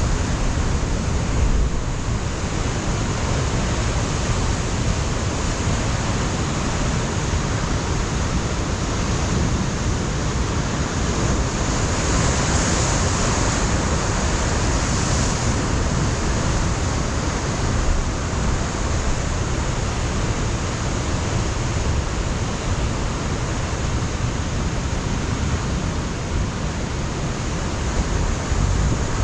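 Ocean surf breaking on a rocky shoreline: a steady wash of waves, with a slight swell of spray about halfway through and low rumble from wind on the microphone.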